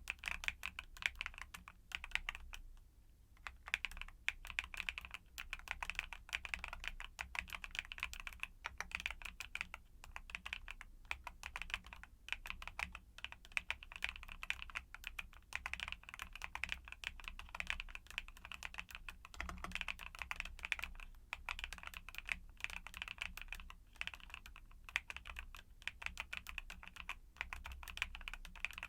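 Fast, continuous typing on a mechanical keyboard with YUNZII Cocoa Cream linear switches: dense, quick key clacks with a brief pause about three seconds in.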